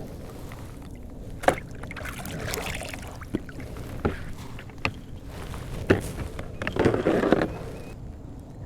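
Sharp knocks and clunks on a fishing kayak, about five of them spread over several seconds, with a short noisy rush a little after the last one.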